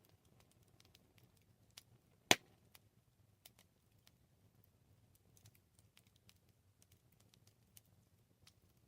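Campfire burning: wood crackling with scattered small pops over a faint low rumble, and one loud snap about two and a half seconds in.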